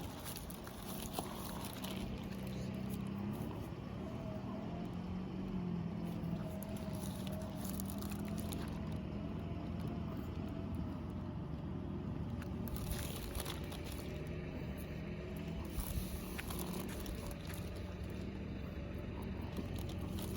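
Steady outdoor background noise with a low droning hum and a faint wavering tone running through it, with a few faint clicks.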